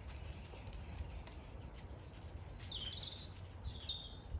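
Songbird chirping twice in quick short phrases in the second half, over a steady low rumble.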